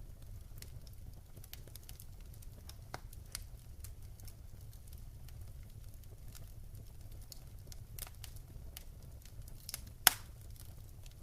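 Wood fire crackling in a fireplace, with scattered sharp pops over a steady low rumble, and one much louder pop about ten seconds in.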